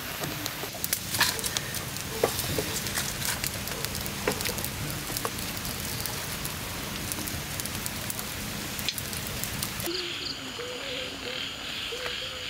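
Steady rain with scattered sharp pops and crackles. About ten seconds in it gives way to frogs calling and insects chirping.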